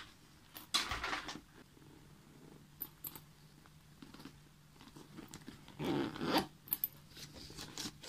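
A fabric bag being handled and unzipped, with short rustling and scraping sounds, the loudest at about a second in and at about six seconds, as the bag is opened and the banknotes inside are fingered.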